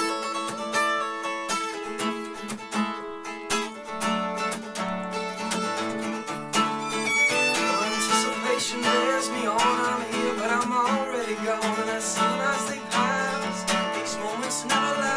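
Instrumental intro of a song played on acoustic guitar, steady chords. About eight seconds in, a wavering melody line with vibrato joins over the guitar.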